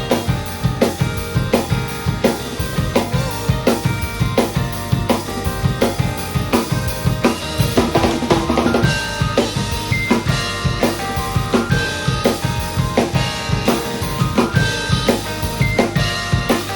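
Drum kit played in a steady rock groove, with kick drum, snare and rimshots, along with the song's band recording.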